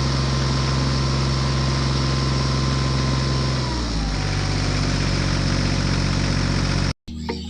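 An engine running steadily, its pitch dropping slightly about four seconds in; it cuts off abruptly near the end.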